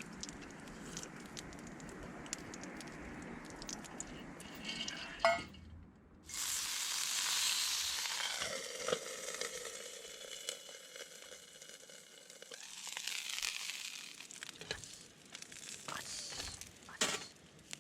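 Food sizzling in hot oil in a pan, starting suddenly about six seconds in and slowly dying down, after a softer steady hiss.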